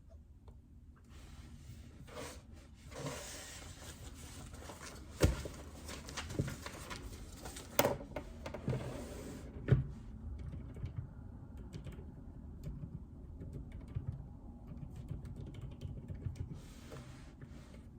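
Typing on a JJK84 mechanical keyboard with Outemu Silent Peach linear switches: irregular keystrokes, with a few louder knocks about five, eight and ten seconds in.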